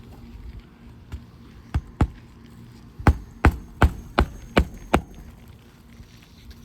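Hammer driving a roofing nail beneath a lifted shingle: a few light taps, then six sharp blows about two and a half a second apart.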